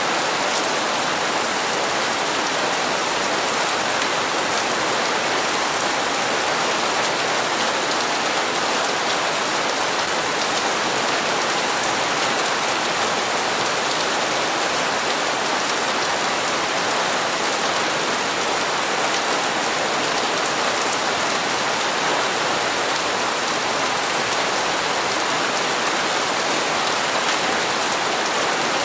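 Steady, even rainfall pattering on hard surfaces, with no change in strength.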